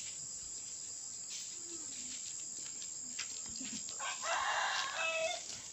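A rooster crows once, about four seconds in, a single call of a little over a second ending on a held note, over faint outdoor background.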